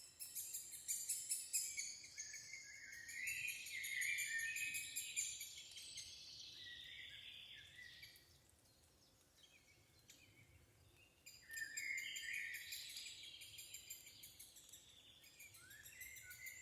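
Birds chirping and trilling in high-pitched calls in two spells, with a quiet gap of about three seconds in the middle.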